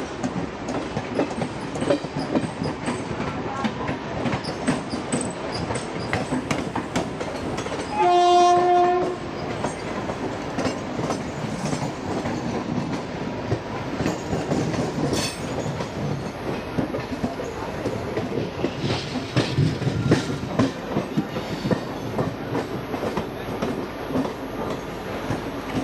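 Indian Railways express train running, its wheels rumbling and clattering over the rail joints. About eight seconds in, a train horn sounds once for about a second.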